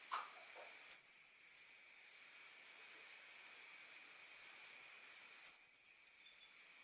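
Orange-headed thrush (anis merah) giving its thin, high 'ngecis' call, the call used to lure males: two long, very high whistles that fall in pitch, about a second in and again about five and a half seconds in, with softer level high notes between and after them. A short click sounds at the very start.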